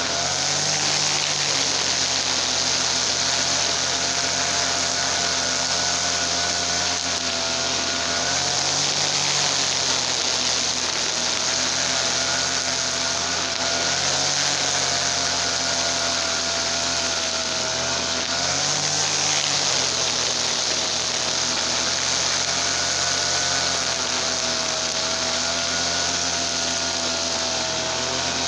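Gasoline TL33 brush cutter engine running steadily at working speed, its note dipping briefly and recovering every few seconds.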